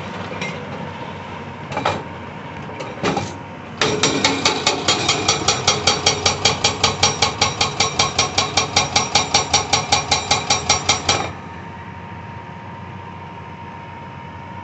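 Hydraulic breaker on a CAT 349E excavator hammering rock. A couple of short bursts of blows come first, then about seven seconds of rapid strikes, about five a second, which stop abruptly. After that the excavator's engine runs steadily.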